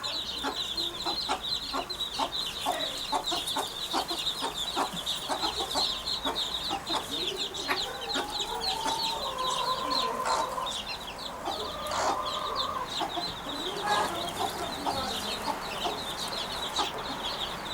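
Birds calling: a dense, unbroken chatter of short high chirps, with many short clucking calls lower down that sound like a chicken, and a few longer held calls in the middle.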